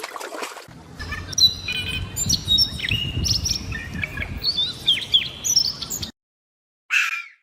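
Small birds chirping: many short, quick calls with fast pitch sweeps over a low background rumble. It cuts off abruptly about six seconds in, and a short hissy burst follows near the end.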